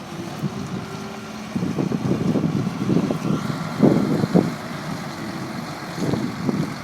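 2006 Volvo A25D articulated dump truck's diesel engine running, with irregular surges in level.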